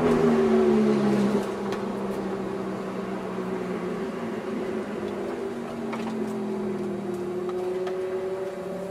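Ferrari F430's V8 engine heard from inside the cabin. Its revs fall over the first second or so as the car slows, then it runs steadily at low revs, rising slightly near the end.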